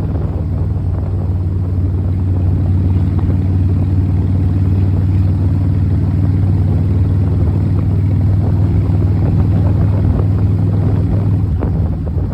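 Kawasaki Vulcan motorcycle engine running steadily, a low even drone that grows slightly louder about two seconds in.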